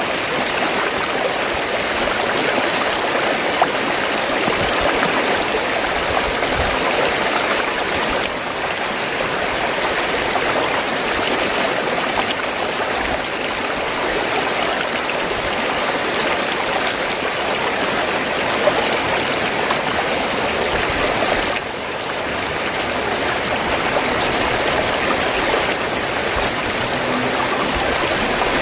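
Fast-flowing stream water rushing and gurgling over rocks, a steady, continuous flow with two brief dips in level.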